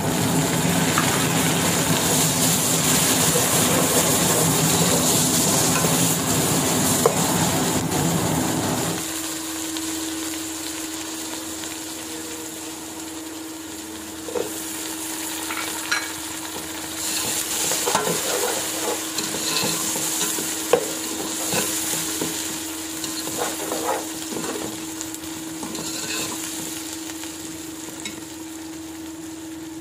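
Onions frying and sizzling in oil in an aluminium cooking pot. For the first nine seconds or so a louder low rumble lies under the sizzle; after that the frying is softer. From about halfway, a metal slotted spoon scrapes and clacks against the pot as the mix is stirred.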